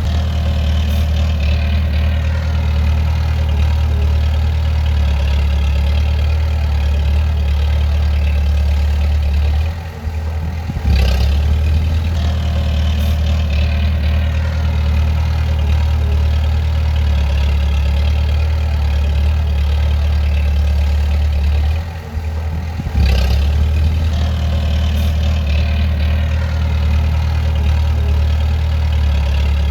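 Bulldozer's diesel engine running steadily under work, a deep even hum. Twice, about ten and twenty-two seconds in, the engine sound dips briefly and then comes straight back up.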